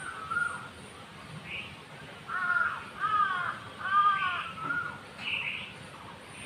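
A crow cawing three times in quick succession, about a second apart, each caw a short arched call, with fainter chirps of other small birds around it.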